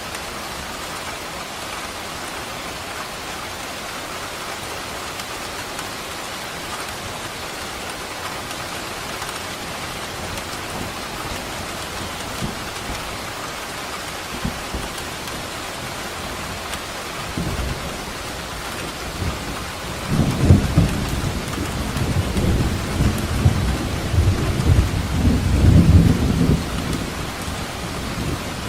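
Steady heavy rain with a long roll of thunder that rumbles in from about two-thirds of the way through, swelling and crackling for several seconds before fading.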